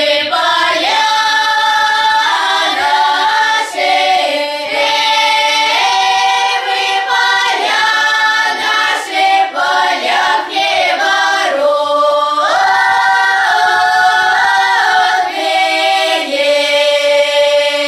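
A choir singing slow, sustained phrases in several parts, with no instrument heard, closing on a long held chord near the end.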